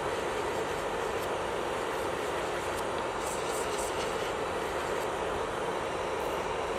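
Electric nail drill (e-file) running steadily at a constant speed, its bit working on the nail.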